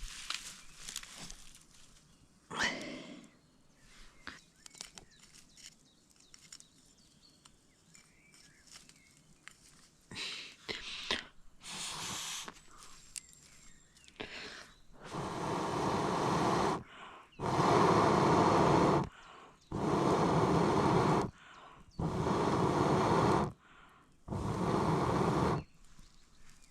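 A person blowing hard on a smouldering fire of wet wood to get it to catch: five long breaths a couple of seconds apart in the second half, after scattered small clicks and rustles.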